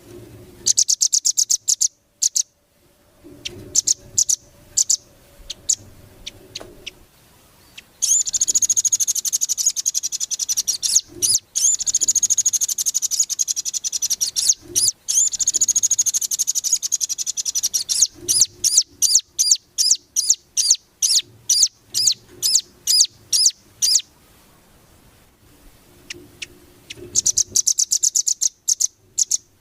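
Small songbird singing in high, fast-repeated notes: quick trills near the start and again near the end, a long unbroken warbling passage through the middle, then a run of separate sharp chirps about two a second. It is a masteran track, bird song recorded for caged birds to learn from.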